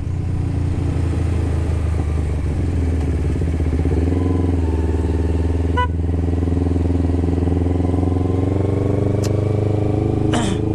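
Kawasaki Ninja 250R's carbureted parallel-twin engine running through a Termignoni exhaust while the bike is ridden at a steady pace, its note rising gradually in the last few seconds. A brief sharp chirp sounds about six seconds in.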